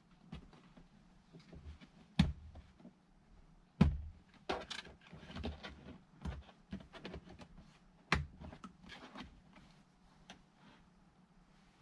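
Irregular knocks, clicks and clunks of hard parts being handled, with three louder thuds about two, four and eight seconds in.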